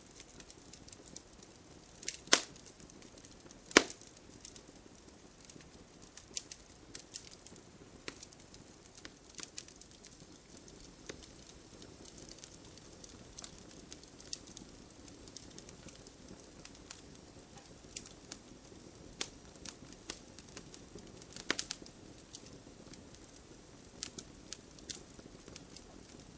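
Wood fire crackling in a fireplace: a faint steady hiss with many small irregular pops and three much sharper, louder snaps, two of them a few seconds in and one past the middle.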